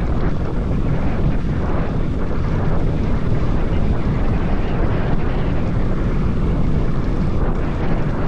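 Steady, loud wind rushing over the microphone of a camera riding along on a moving mountain bike.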